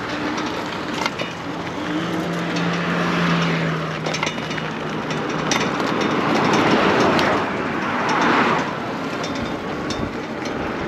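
Road noise while riding an electric bike: tyre and wind noise with a steady hum, and swells of traffic noise about two-thirds of the way in.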